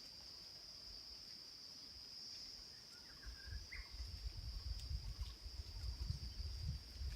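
Faint steady high insect drone, like crickets or cicadas, with a few short bird chirps just after the middle and a low rumble joining in the second half.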